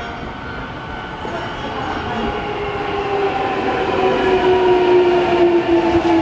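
Hankyu 9000 series electric train arriving and slowing down: its traction motors give off a whine of several tones that falls slowly in pitch as the train brakes, over wheel and track rumble that grows louder as it comes in.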